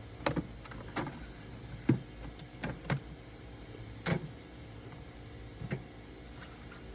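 Scattered clicks and light knocks from containers being handled in a refrigerator, the sharpest about two and four seconds in.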